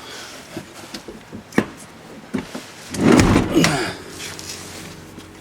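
Knocks and clicks from handling inside a pickup truck's cab, then a louder scraping rustle about three seconds in.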